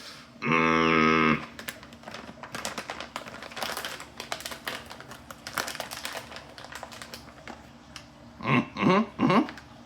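A loud, steady, buzzy tone lasting about a second, then several seconds of crinkling and clicking from the candy's plastic packaging being handled, and a few short voice-like sounds near the end.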